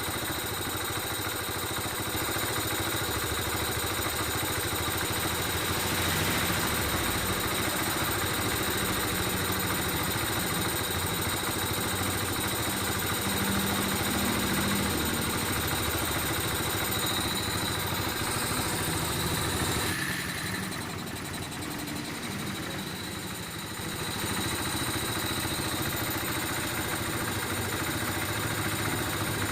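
Kawasaki Barako 3's fuel-injected single-cylinder engine idling steadily while its idle speed is adjusted, aimed at about 1690 to 1750 rpm. It goes quieter for a few seconds about twenty seconds in, then returns to the same idle.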